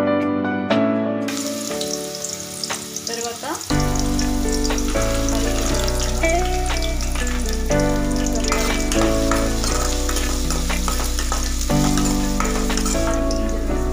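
Diced carrot and groundnuts frying in hot oil in a kadai: a steady sizzle with small crackles. Background instrumental music plays over it.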